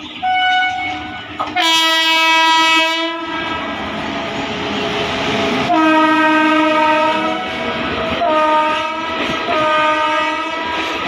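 Indian Railways electric locomotive horn sounding: a short toot, a long loud blast, then three more blasts, over the noise of the passing train.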